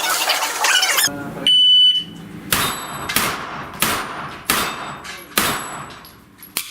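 A shot-timer start beep, a single held electronic tone, followed by five gunshots fired at steel plates in an even string, each about two-thirds of a second to a second apart and each with a short echoing tail.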